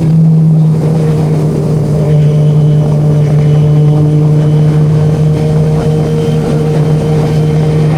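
Sportbike engine running at a steady speed, one loud even drone that holds its pitch without revving.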